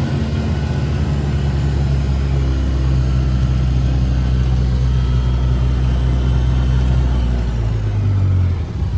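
Side-by-side UTV's engine running while driving: a steady low drone whose note shifts a couple of times, with a brief drop in loudness near the end.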